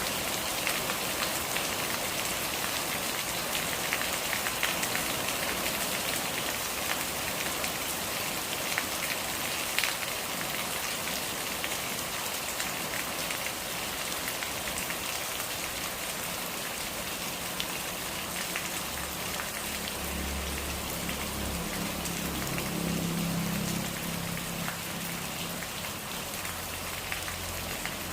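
Steady rain falling, with many individual drops ticking. A low hum joins in past the halfway mark.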